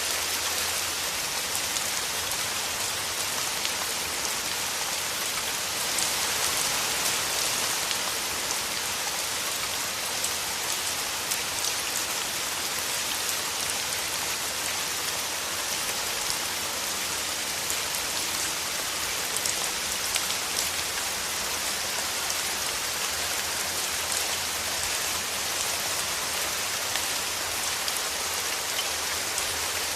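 Steady rain falling through forest trees: an even hiss, full of small ticks from individual drops.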